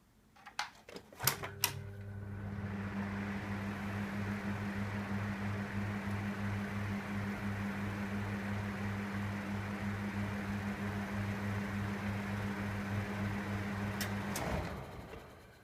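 A 1986 Daiken EK-3025D ventilation fan (a Seibu Denko SF-25EL) is switched on with a few clicks. Its motor comes up to speed with a steady low hum that pulses slightly, under an even rush of air. Near the end it is switched off with more clicks and winds down.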